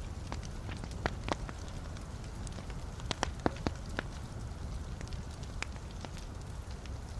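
Logs burning in a fireplace, crackling over a steady low rumble of flame, with scattered sharp pops that bunch together about three to four seconds in.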